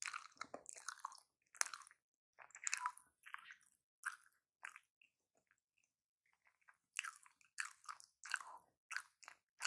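Close-miked chewing of a footlong hot dog in a soft bun, irregular wet mouth sounds and bites, falling almost silent for a couple of seconds in the middle.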